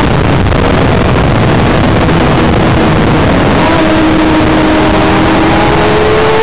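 Triumph Daytona 675's three-cylinder engine heard on board at track speed under heavy wind rush over the microphone. The engine note is mostly buried in the wind for the first few seconds, then climbs steadily in pitch as the bike accelerates.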